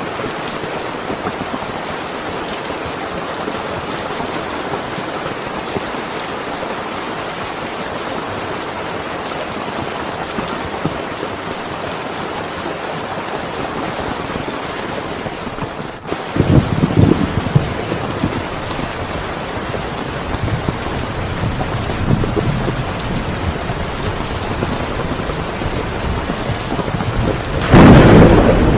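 Heavy rain falling steadily. About halfway through, the sound changes abruptly and gets louder, with deep rumbling surges, the loudest near the end.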